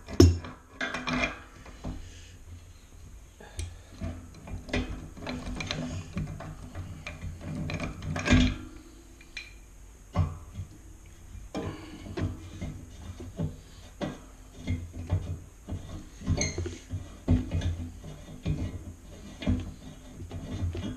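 Hammer striking a screwdriver to drive the old pipe piece out of a cast iron radiator's fitting: repeated metal-on-metal knocks at an irregular pace, with the loudest blows near the start and about eight seconds in.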